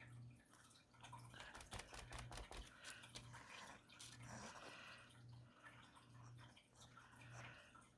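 Faint sounds of a flip-cup acrylic paint pour: the cup is lifted and the paint runs and drips onto the canvas, with a cluster of small clicks and crackles between about one and a half and three seconds in. A faint low hum swells and fades about once a second.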